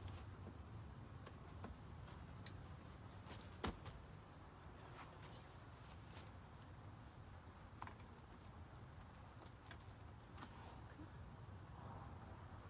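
A small bird chirping over and over, short high chirps that each fall in pitch, about one or two a second. A few sharp clicks and knocks stand out louder in between.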